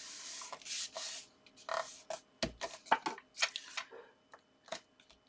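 Hands pressing and smoothing a paper panel onto a card base: a rubbing hiss of paper on paper for about the first second, then scattered light taps and rustles of card being handled.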